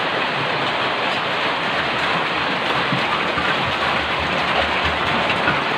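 Heavy rain falling, a steady even hiss at a constant level.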